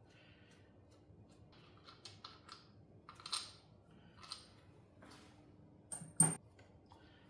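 Small metal engine parts and tools clinking and tapping as they are handled and set down during an engine teardown: irregular light clicks, a few with a short metallic ring, and the sharpest clink about six seconds in.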